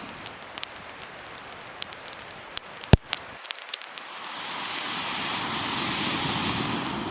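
Wood fire crackling with scattered sharp pops, one loud pop about three seconds in, and a rushing hiss that swells in the second half.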